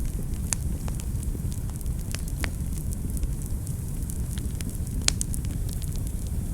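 Fire burning in a fireplace: a steady low rumble with scattered sharp crackles and pops, the loudest pop about five seconds in.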